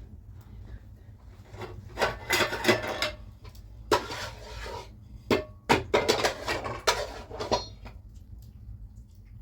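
Irregular scraping and clattering as objects are handled: a run of rough rubbing strokes and knocks, loudest in the middle of the stretch.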